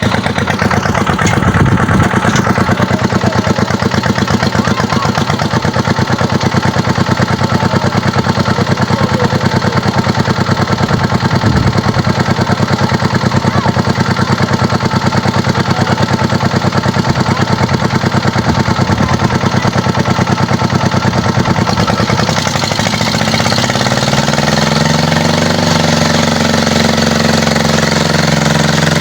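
Kubota tractor's diesel engine running with a steady, fast firing beat. After about twenty seconds its note changes and the engine speed shifts up and down before settling.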